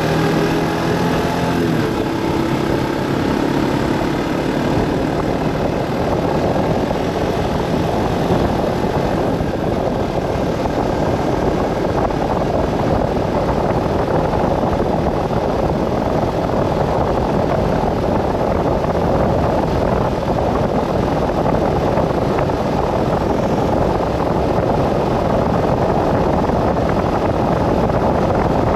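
A vehicle driving along a road. An engine tone is heard in the first few seconds, then fades into a steady rush of road and wind noise.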